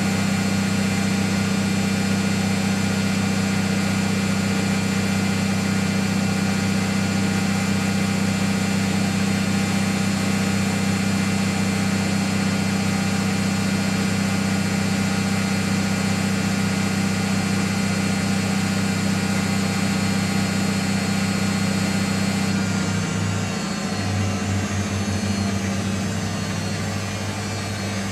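Miele Softtronic W 435 front-loading washing machine in its final spin at up to 900 rpm, its motor and drum running at a steady high speed with a loud hum. About 23 seconds in the spin starts to slow, and the hum falls away to a lower, unsteady whine.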